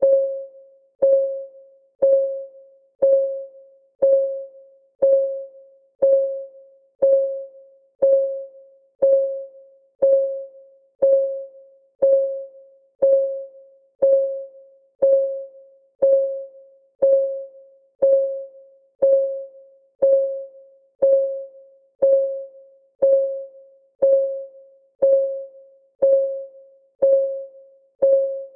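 Countdown timer's clock-ticking sound: one tick a second, each a sharp click with a short pitched ring that dies away within half a second.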